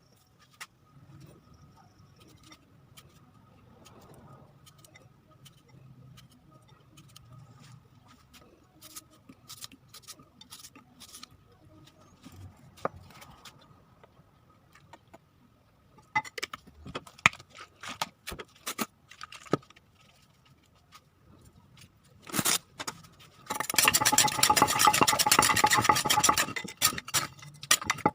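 Dishes and utensils being handled: scattered light clicks and scrapes, a run of sharper clinks past the middle, then about four seconds of loud continuous scraping and rustling near the end.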